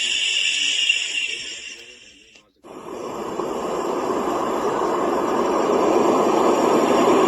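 Dreamegg portable noise machine switching between its soothing sounds: a bright, high hiss fades out about two seconds in. After a brief silent gap, a deeper, darker steady noise starts and swells louder.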